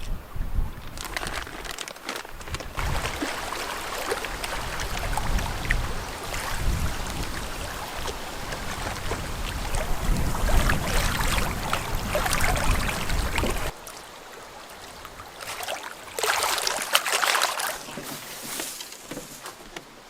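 Wind buffeting the microphone and water sloshing against a drifting canoe's hull, gusty and uneven. About fourteen seconds in the rumble cuts off suddenly, leaving a quieter background with a short burst of rustling hiss.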